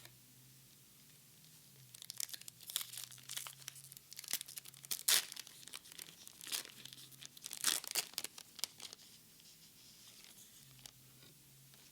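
A Japanese Pokémon card booster pack's foil wrapper being torn open and crinkled, in a run of sharp crackling tears lasting several seconds, loudest about halfway through.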